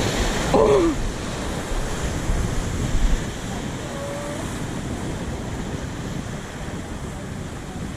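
Ocean surf washing on a rocky shoreline, with gusts of wind rumbling on the microphone that are loudest in the first three seconds.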